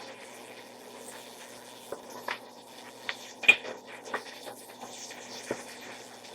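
Chicken searing in hot oil in a pot: a faint steady sizzle with scattered pops and crackles.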